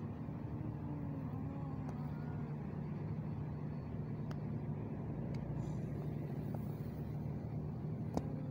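Steady low mechanical hum, like a nearby engine or traffic, with faint drawn-out rising-and-falling yowls from two male cats in a standoff during the first two seconds.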